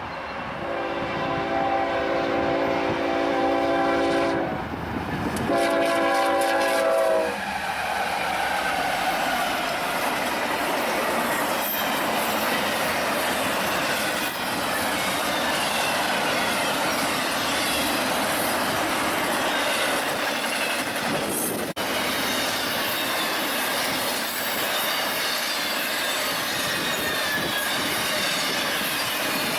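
Union Pacific locomotive air horn sounding two blasts, a long one then a shorter one, followed by the train rolling past with wheels clattering over the rail joints and squealing faintly.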